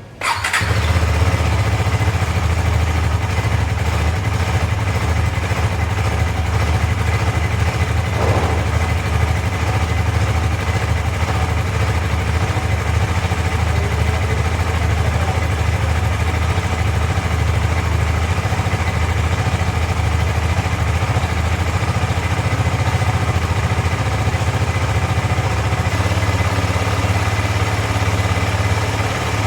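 KTM 250 Adventure's single-cylinder engine idling steadily. It comes in suddenly just after the start and holds an even idle without stalling, the sign that its cold-start fault has been cured by the spark plug change and throttle body cleaning.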